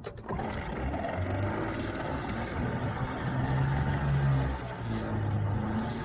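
1983 Johnson 35 two-stroke outboard motor running underway, its note rising about halfway through and then easing back, after a brief knock at the start.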